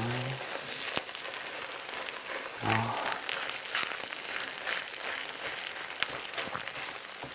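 Octopus fried rice crackling and sizzling in a hot pan, with light scattered clicks as it is stirred.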